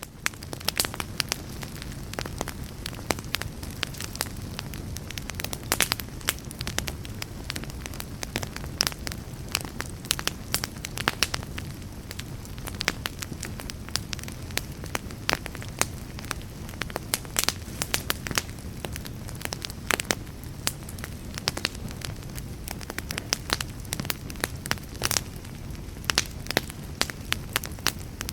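A burning fire crackling, with frequent irregular sharp pops and snaps over a steady low rumble.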